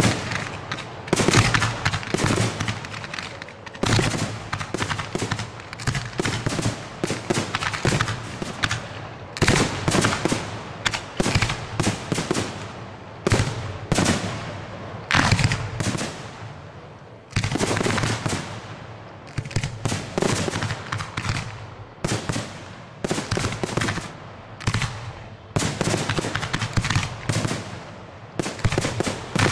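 Fireworks show being fired: ground-launched comets and aerial shells going off in rapid volleys, a dense run of sharp bangs in quick succession with only short lulls.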